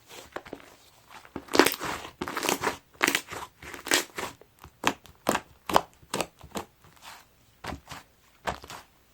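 Hands squishing and pressing a thick slime mixed with snow clay, giving a string of short, irregular crackling, crunchy pops, about a dozen of them.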